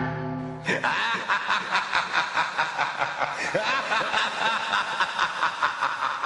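A horror sound effect of sinister cackling laughter: a fast run of short laughing pulses, about four or five a second, that starts abruptly a little under a second in, right as a held low musical drone cuts off.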